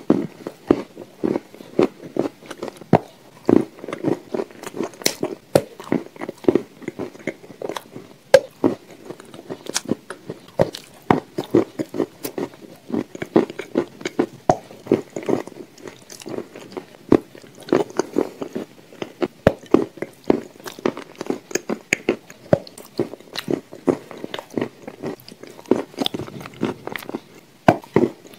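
Biting and chewing of crumbly dry chunks dipped in a thick grey paste: soft crunches, several a second and without a break.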